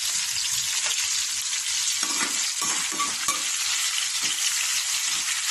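Chicken gizzard adobo sizzling steadily in a frying pan, with a spatula stirring and scraping against the pan about two to three seconds in.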